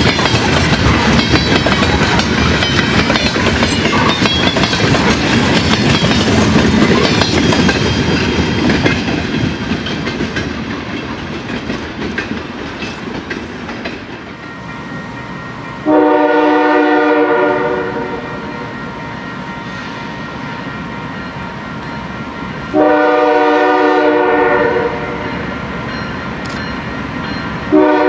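Loaded coal hopper cars rolling past with wheels clacking over the rail joints, the noise fading as the end of the train goes by. Then a diesel locomotive's horn sounds two long blasts, about 16 and 23 seconds in, and a third begins near the end.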